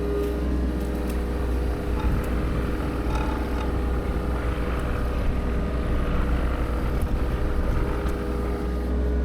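Heavy land-clearing machinery running steadily: a constant low engine drone with a steady hum above it.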